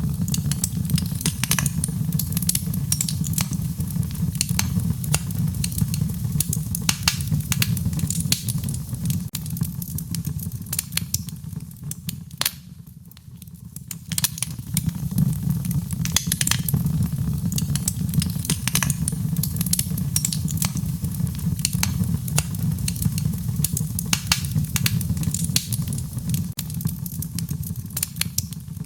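Wood fire crackling, with frequent sharp pops over a steady low rumble of the flames; it eases briefly a little before halfway through.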